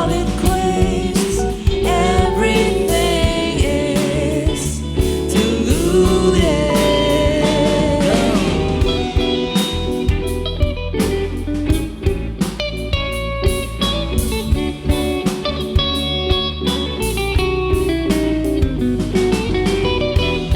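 Live band playing an instrumental passage between sung lines: an electric guitar lead with sliding notes over drums and bass.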